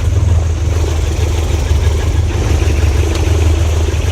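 An engine running steadily, giving a loud, even low hum with no change in speed.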